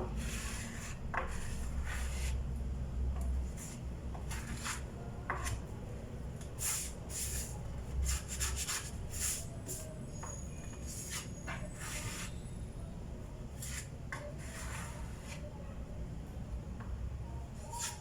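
Putty knife scraping in short, irregular strokes over a wooden table top as it is filled with wood putty, with a low steady rumble underneath.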